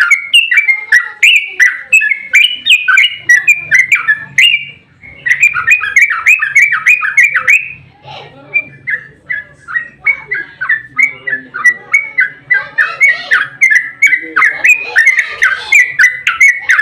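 Yellow-vented bulbul (trucukan) song: a long run of rapid, loud chattering notes, several a second, broken by a couple of brief pauses and growing busier and rougher near the end.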